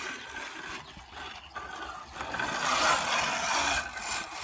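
Rough scraping, rushing noise of a small dirt bike's tyre churning through dirt, swelling louder for about a second and a half in the middle.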